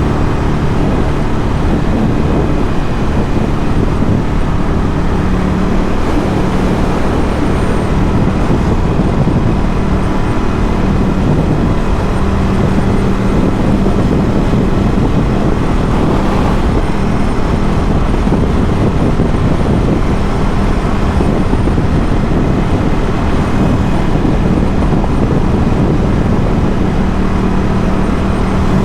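Ducati Scrambler 1100's air-cooled L-twin engine, breathing through a Termignoni exhaust, running steadily while the bike cruises. Its pitch holds mostly level over a dense, continuous rush of noise.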